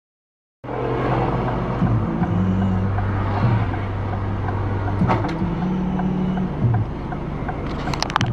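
Dashcam audio starting suddenly: loud road and engine noise inside a car, with low held notes that step from one pitch to the next, like music from the car's stereo. There is a sharp knock about five seconds in and a quick run of sharp knocks near the end.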